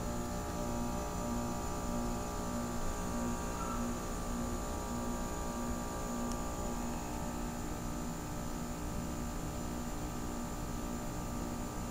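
Goodman heat pump outdoor unit running in heat mode with its coil iced over, just before going into defrost: a steady compressor-and-fan hum with a faint hiss. A low tone pulses through the hum about twice a second, fading out toward the end.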